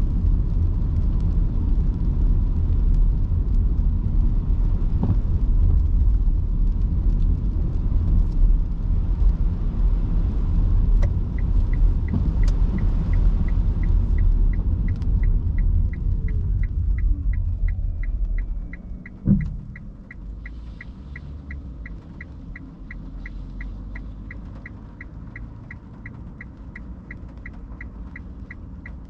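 Cabin sound of an electric car driving: low road and tyre rumble that fades as the car slows to a stop about two-thirds of the way through, with a short thump as it stops. From a little before halfway, a turn-signal indicator ticks steadily, about twice a second.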